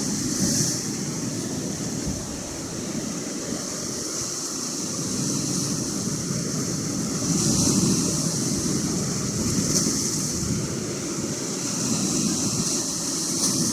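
Atlantic Ocean surf washing on the shore, with wind rumbling on the microphone. The surf hiss swells several times, roughly every two to three seconds, over a steady low rumble.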